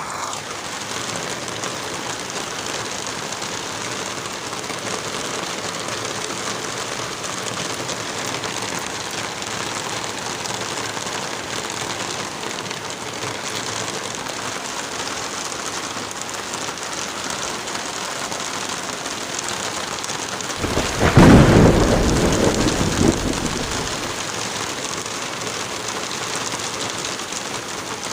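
Steady heavy rain, with a loud deep clap of thunder about three quarters of the way through that rumbles and fades away over a few seconds.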